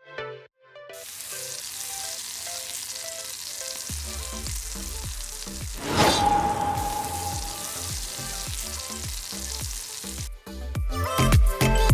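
Food frying on a hot cooking surface: a steady sizzle, with a brief louder rush about six seconds in.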